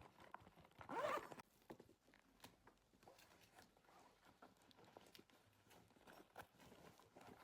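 Near silence with one short scraping, rasping burst about a second in, followed by faint scattered clicks and rustles of small objects being handled.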